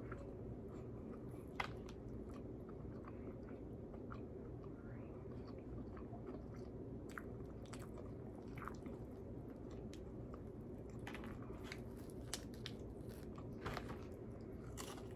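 Close-up eating sounds of a person chewing and biting crispy fried chicken: scattered small crunches and mouth clicks over a steady low hum.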